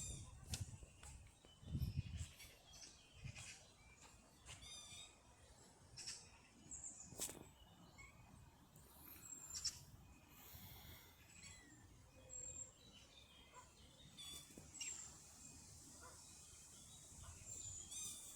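Faint chirps and short calls of small birds, scattered throughout, with a brief trill about four to five seconds in, over quiet outdoor background.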